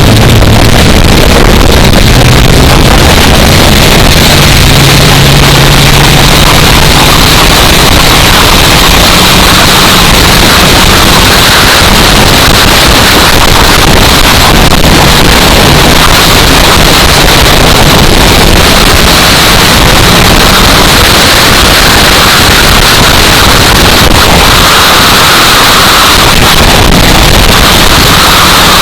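Loud wind noise buffeting the microphone, steady and harsh, with race car engines faintly audible beneath it, their pitch wandering as the cars lap.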